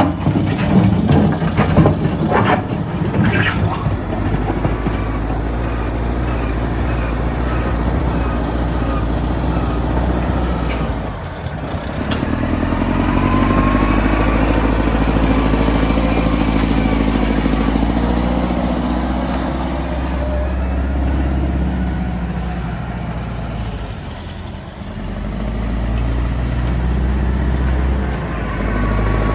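Heavy diesel machinery running, its engine drone dropping away briefly twice and then building up again. A quick series of knocks in the first few seconds.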